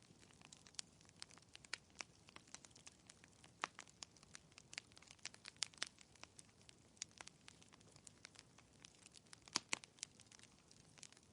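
Burning logs in a fireplace crackling: irregular sharp pops and snaps over a faint hiss, with two louder pops close together near the end.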